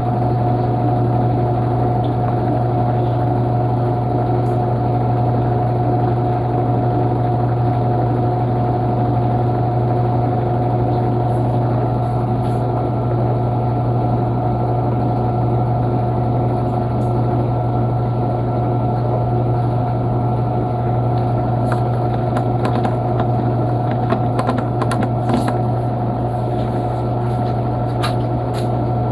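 Panasonic washing machine running with a steady motor hum and a few faint clicks near the end.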